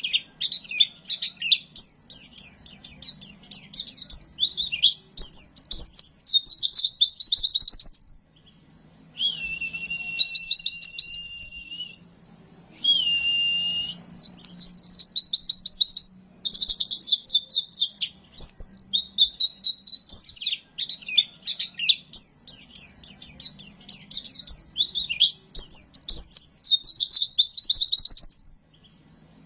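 Pleci (white-eye) singing: long runs of fast, high twittering, broken by two short pauses. Twice, a thin held whistle sounds beneath the twitter.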